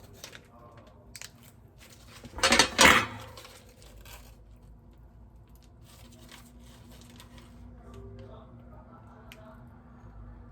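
Light clicks and handling noises. About two and a half seconds in there is a loud, brief rasping noise in two quick pulses, and a faint steady hum joins later.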